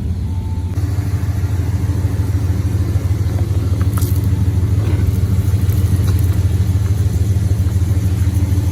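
Truck engine running at low revs, a steady deep rumble, as the truck makes another slow pass. A faint short click comes about four seconds in.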